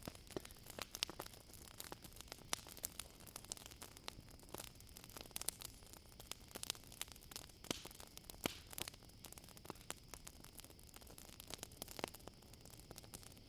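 Wood campfire crackling, with irregular sharp pops and snaps over a soft hiss. A steady high cricket trill runs underneath.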